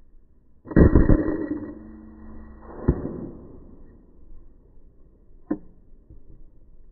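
Air rifle shot: a sudden loud report with a short clatter that dies away over about a second, a second sharp knock about two seconds later, and a single sharp click near the end.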